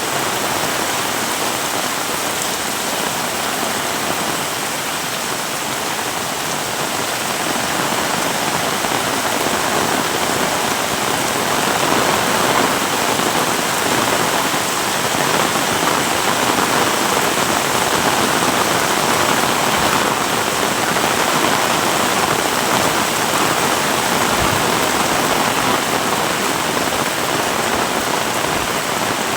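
Heavy rain pouring down, a dense steady hiss that grows a little louder about twelve seconds in.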